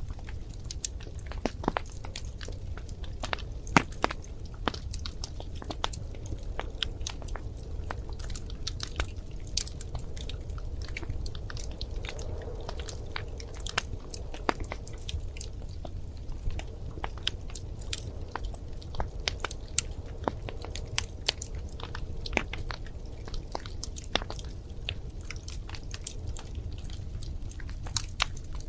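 Wood fire crackling: irregular sharp pops and snaps, a few louder ones standing out, over a steady low rumble of burning.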